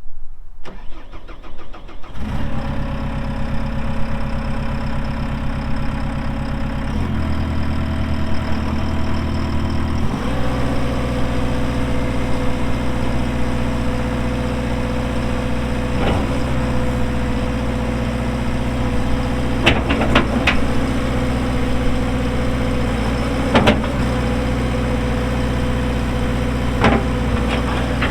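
Diesel engine of a JCB 300T compact track loader starting: it catches about two seconds in and runs at low idle, then revs up to a higher steady speed about ten seconds in. A few sharp knocks come through later on.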